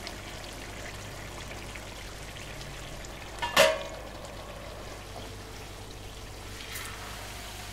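Sliced potatoes frying in plenty of olive oil, a steady sizzle. About halfway through, a metal lid is set down on a pan with one short clink.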